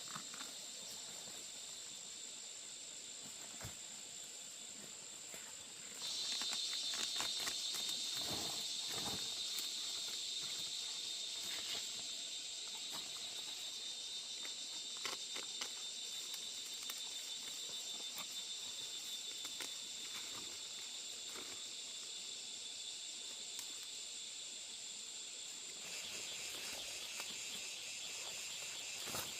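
A steady, high-pitched chorus of insects chirring, growing louder about six seconds in, with scattered faint rustles and clicks beneath it.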